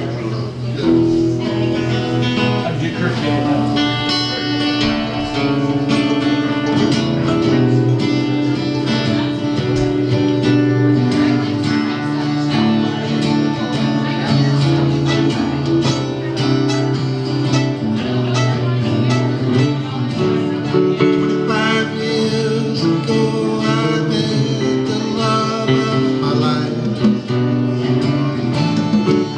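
A live band playing a guitar-led instrumental passage.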